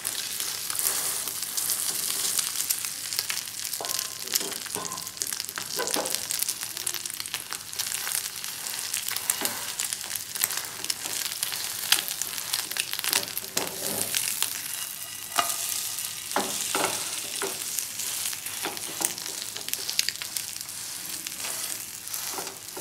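Egg-coated stuffed pastry shallow-frying in a nonstick pan, sizzling steadily, with repeated scrapes and clicks of a spatula against the pan as it is turned and pressed.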